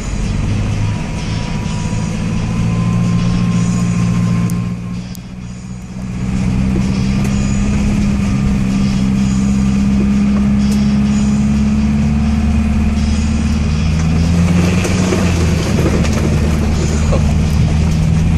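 Land Rover Defender's engine heard from inside the cab, running steadily under load as the vehicle drives a grassy off-road track. It eases off briefly about five seconds in, then pulls again.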